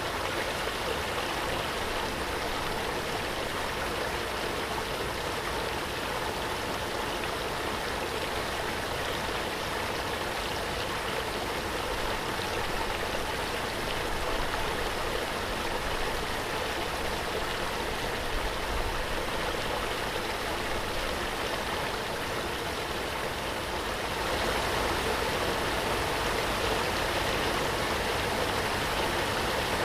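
Waterfall: a steady rush of falling water, a little louder from about three-quarters of the way through.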